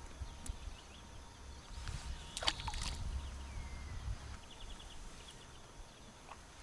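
Outdoor ambience of low wind rumble with faint bird calls: a sharp call about two and a half seconds in and a quick run of repeated chirps a little later.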